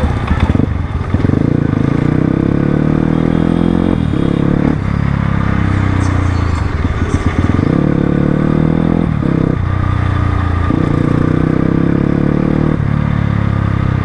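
Crossfire RM250 dirt bike engine pulling under throttle, its pitch climbing steadily and then dropping back at each of several gear changes.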